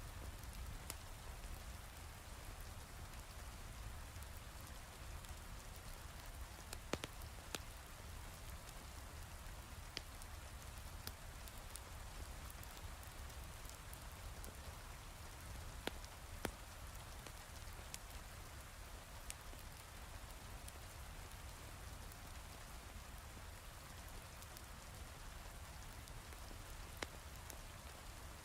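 Heavy rain falling steadily over a low rumble, with a few sharp pops of a crackling wood fire scattered through it.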